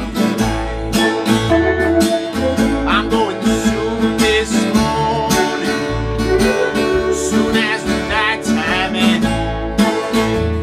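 Americana-blues band playing: strummed acoustic guitar with fiddle, electric guitar and bass.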